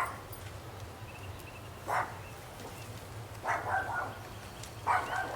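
A dog barking four times at irregular intervals, over a low steady hum.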